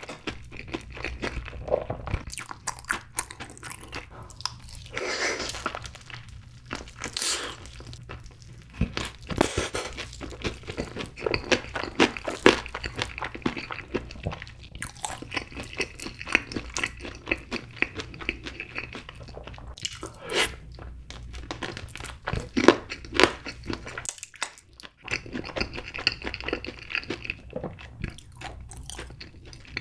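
Close-miked crunching and chewing of a crispy fried chicken drumstick coated in sweet-spicy yangnyeom sauce: repeated crackling bites and wet chewing, with a brief pause near the end.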